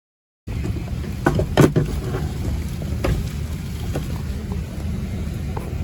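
Steady low rumble of airliner and airport background noise, with a few knocks and clicks, the loudest just over a second in. It starts abruptly about half a second in, after dead silence.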